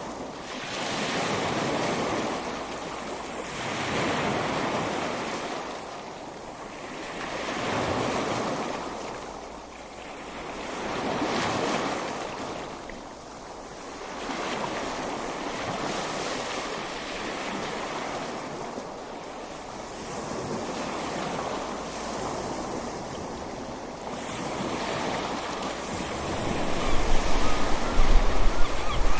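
Ocean waves breaking and washing up a beach, swelling and ebbing about every three to four seconds. Near the end, wind buffets the microphone with low rumbling gusts.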